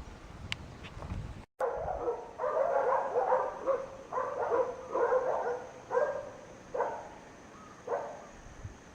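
A dog barking repeatedly, about ten barks in quick runs, starting about a second and a half in and tailing off near the end.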